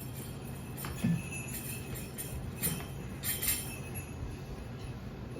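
Sleigh bells shaken briefly, about half a dozen irregular jingles, over a steady low hum.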